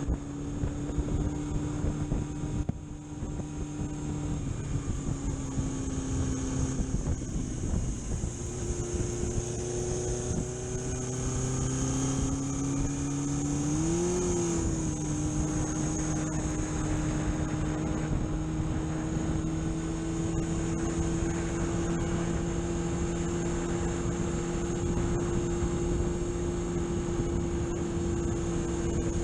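Car engine running while driving, a steady drone whose pitch drops about four seconds in, then climbs. There is a brief rise and fall in engine speed near the middle, after which it settles into a steady, slowly rising note.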